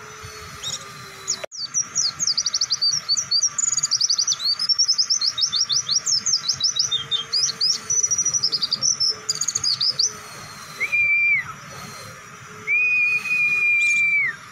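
A pleci dakun (mountain white-eye) sings a long, fast burst of high chattering chirps lasting about eight seconds. Two long, steady whistled notes follow near the end.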